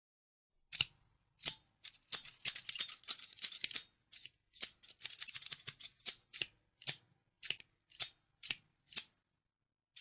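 Scissors snipping: a couple of single cuts, then quick runs of rapid snips, then single snips about two a second, with one more at the end.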